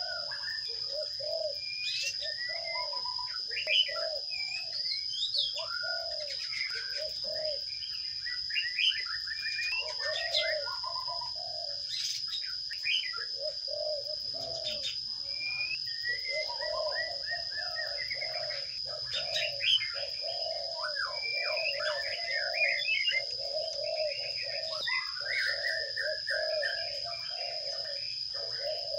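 Birds calling: quick high chirps and twitters over a run of low notes repeated about two a second, with a steady high-pitched whine underneath throughout.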